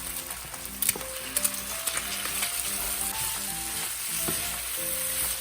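Egg frying in hot oil in a stir-fry pan, a steady sizzle, with a few sharp spatula clicks about a second in as it is stirred.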